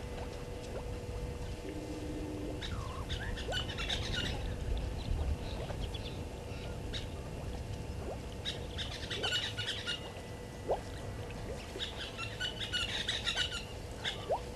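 A wild bird singing three bursts of rapid high chirps, about four seconds apart, over a steady low outdoor background rumble.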